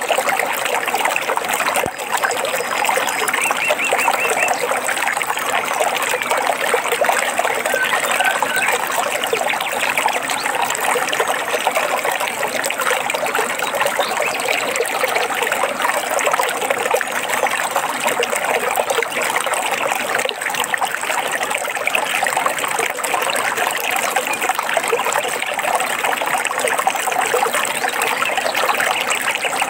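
Stream water trickling and babbling steadily, with a few faint, brief bird chirps over it.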